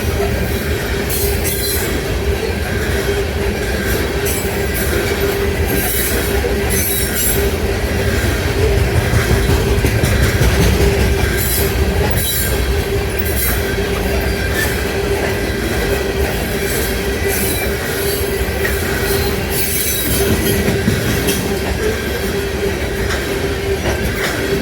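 Freight train rolling past, its cars' steel wheels clattering over the rail joints with a steady squeal and a low rumble throughout.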